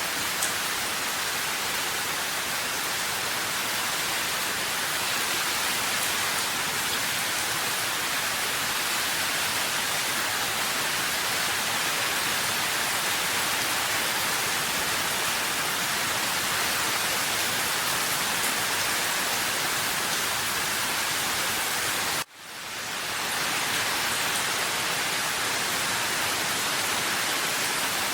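Steady, even rain. About 22 seconds in it cuts out suddenly and then fades back in over a second or so.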